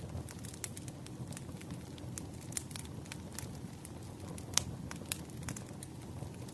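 Wood fire burning: a steady low rumble with irregular crackles and sharp pops, the loudest pop a little past the middle.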